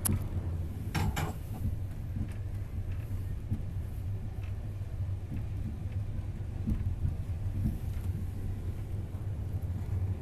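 Steady low rumble of a moving passenger train heard from inside the carriage, with a couple of short knocks about a second in.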